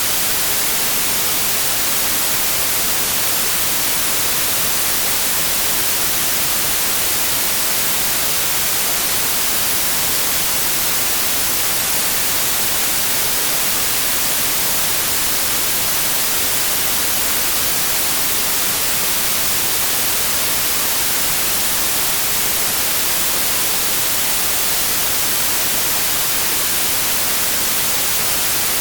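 Synthetic white noise: a steady, unchanging hiss, loud and even, with no tone, rhythm or breaks.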